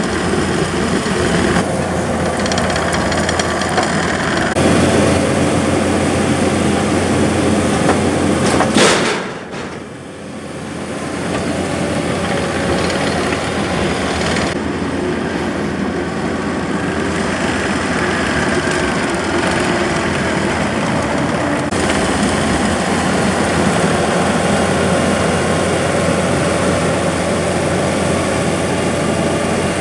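Gehl tracked skid steer's diesel engine running steadily while its grapple loads logs into a dump trailer, with one sharp, loud knock about nine seconds in.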